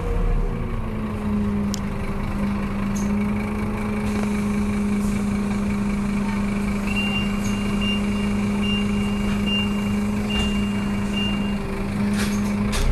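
Scania K230UB bus's diesel engine idling steadily at a standstill. A high, evenly repeated beep sounds for a few seconds in the second half.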